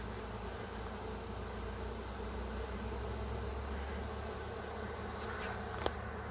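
Steady drone of a honey bee swarm in flight, thousands of bees buzzing in the air as the colony leaves the hive. A single sharp click near the end.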